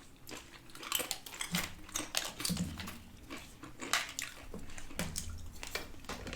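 Eating sounds: irregular crisp crunches and clicks from crunchy food and utensils, several a second at times.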